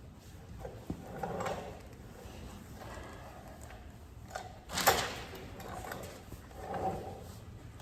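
A rag wiped over a steel car body panel in a few swishing strokes, with one louder, sharper scrape or knock about five seconds in.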